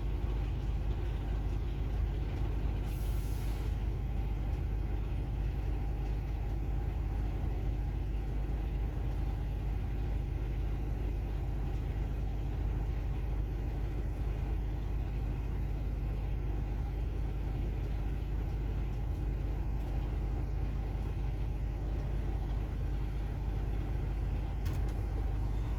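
Truck's diesel engine running steadily, a low rumble with faint engine tones, with a short hiss about three seconds in.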